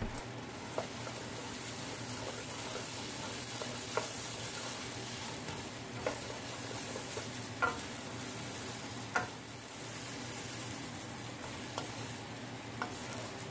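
Zucchini, onion and toasted fideo noodles sizzling steadily in oil in a pot as they are stirred with a wooden spoon. The spoon knocks lightly against the pot about half a dozen times.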